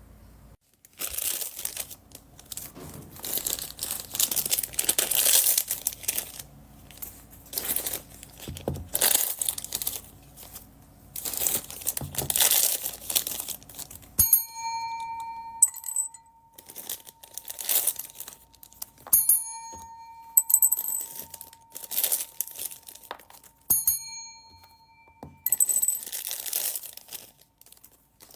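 Plastic packaging bags crinkling and tearing in repeated rustling bursts as they are handled and opened. From about halfway through, a few clear bell-like pings ring out and fade, about three times.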